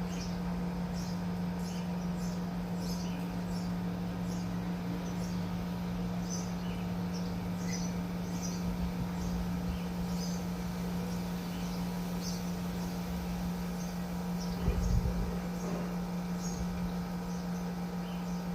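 Small bird chirping with short, high cheeps every second or so, over a steady low hum, with one dull thump about fifteen seconds in.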